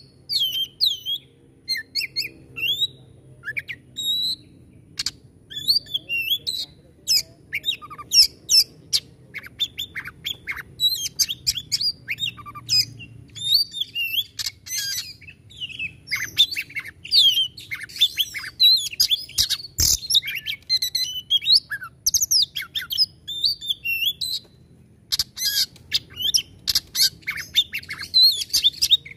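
Oriental magpie-robin singing a fast, varied song of whistled phrases, chirps and harsh, sharp notes of the rough "shooting" (nembak kasar) kind, with brief pauses between bursts.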